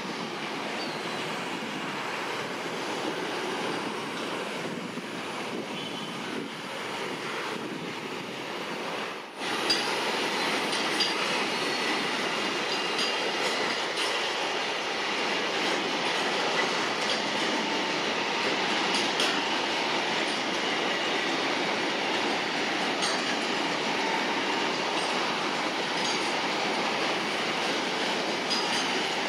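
Covered car-carrier freight wagons rolling past on a curve: a steady rumble of steel wheels on rail, with clicks at the rail joints and a faint high wheel squeal. About nine seconds in the sound dips briefly, then comes back louder.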